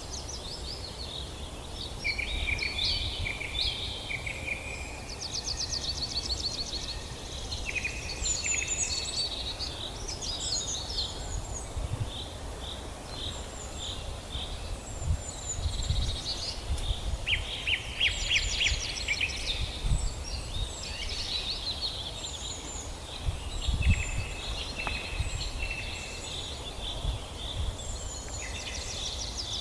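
Several songbirds singing and calling at once: overlapping high chirps and whistles, with rapid trills now and then, over a low steady rumble.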